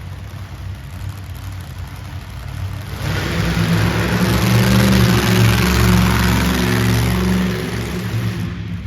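Monster truck engine running loud and revving, growing much louder about three seconds in and easing off near the end.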